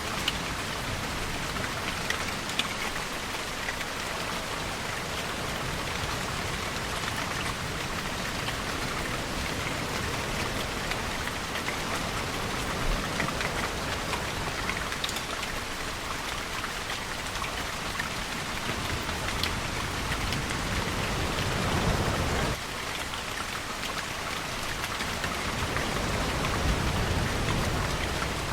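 Steady rainfall, with individual drops pattering on a surface. In the second half, two low surges of ocean surf build up, and the first one cuts off suddenly.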